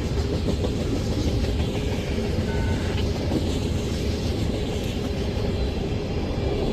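Freight train cars, tank cars among them, rolling past in a steady rumble of wheels on rail, with a faint steady tone running under it.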